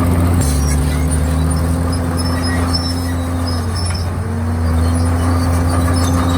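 Komatsu D51PX crawler bulldozer's diesel engine running steadily, its pitch dipping briefly and recovering about four seconds in.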